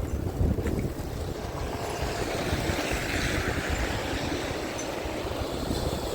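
Wind buffeting the microphone in a low rumble, with the hiss of a vehicle's tyres on a snowy street swelling and fading in the middle.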